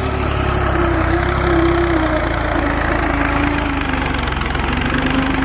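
Tractor engine running steadily, a low rumble with a pitched tone that eases down slightly over the first couple of seconds and then holds level.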